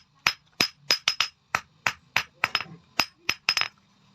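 Hand hammer striking steel on an anvil, forging bearing steel: quick repeated blows, about three to four a second, each with a short metallic ring, a few landing as quick double strikes.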